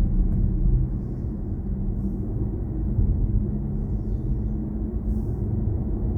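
Steady low road and tyre rumble inside the cabin of a BMW i4 M50 electric car while it drives.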